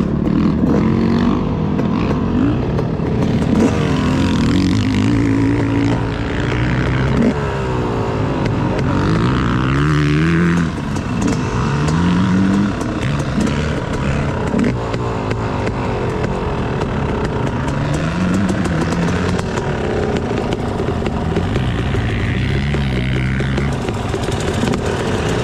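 Two-stroke 250 dirt bike engine, a 2018 Yamaha YZ250X, being ridden hard around a motocross track. The pitch rises again and again as the throttle is opened through the gears, then drops when the rider shuts off.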